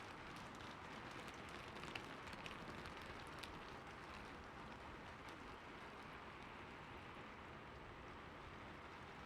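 Faint, steady rain falling, an even hiss with scattered drop ticks and a few louder drips about two to three and a half seconds in.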